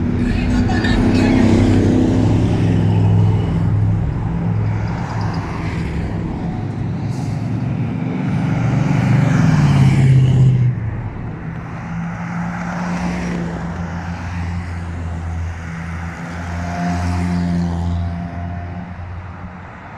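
Trucks driving past one after another, engines running; one engine climbs in pitch and gets louder, then drops away suddenly about ten seconds in, and other engines carry on at a steadier pitch.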